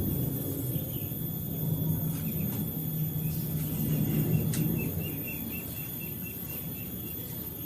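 Male dove (burung puter) cooing in a low, drawn-out voice, loudest about four seconds in and fading after about five seconds, over a steady insect buzz, with a few small bird chirps in the middle.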